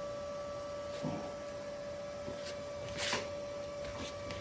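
A steady electrical hum from a MIG welder switched on and waiting, with a few light clicks and a short hiss about three seconds in.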